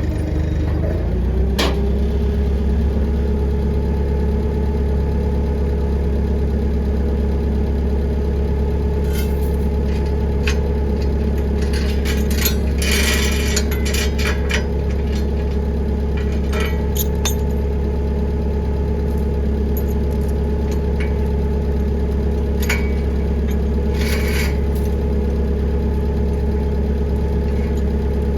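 An engine running steadily, its pitch stepping up slightly about a second in, with scattered metallic clanks and knocks over it.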